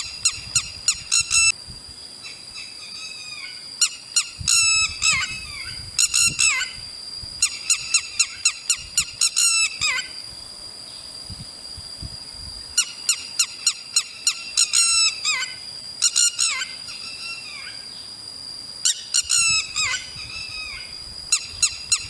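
A bird calling in bouts of rapid, sharp chirps, each bout lasting a second or two with short pauses between, over a steady high tone.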